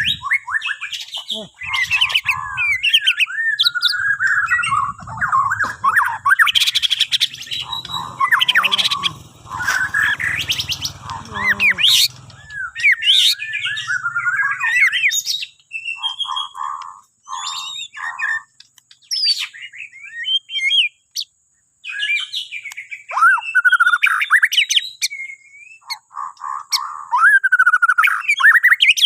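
Bornean shama (murai batu) singing: long, rapid runs of varied whistled and chattering phrases, broken by short pauses and, partway through, a few short repeated notes.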